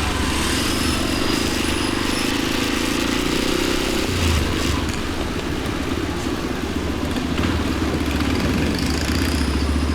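Motorcycle engine running steadily while riding, with road and wind noise on the onboard microphone.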